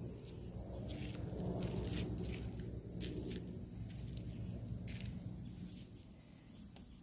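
Newly lit campfire catching, with scattered sharp crackles and a low, even rumble. Crickets chirp steadily in the background.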